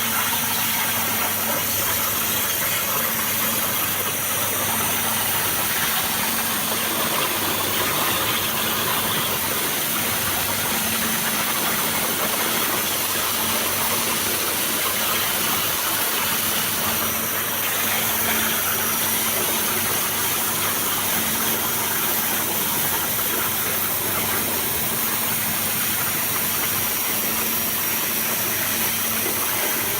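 Abrasive waterjet cutting machine running: a steady loud hiss of the high-pressure jet, with a steady low hum underneath.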